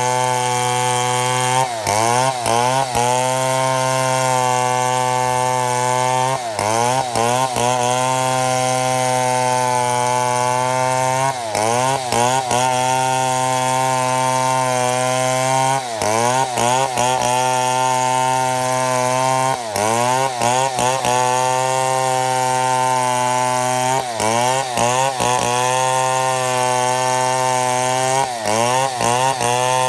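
Chainsaw mill ripping a mahogany log lengthwise into slabs, the saw's two-stroke engine held at high speed under cutting load. Its pitch dips briefly and recovers about every four to five seconds.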